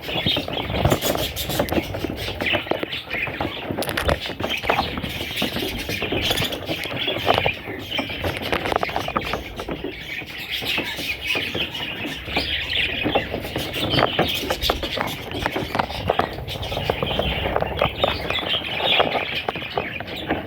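Budgerigar chicks chirping continuously, many short overlapping calls.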